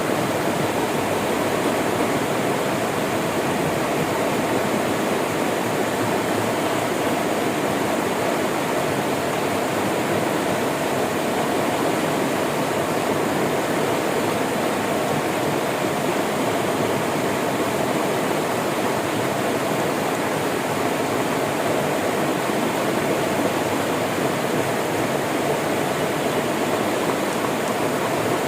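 Flowing river water rushing steadily, an even, unbroken wash of sound with no changes.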